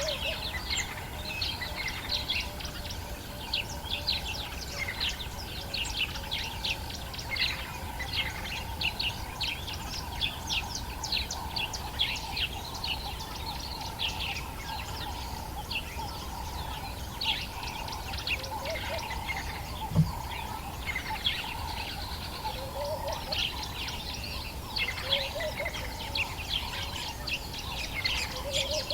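Dawn chorus of many birds in the African bush, with rapid overlapping chirps and calls throughout, over a steady low hum. There is a single sharp knock about two-thirds of the way through.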